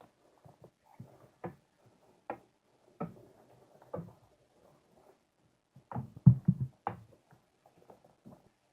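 Irregular small clicks, taps and knocks of parts of a 1:18 diecast model car being handled on a work surface, with a denser, louder run of knocks about six seconds in.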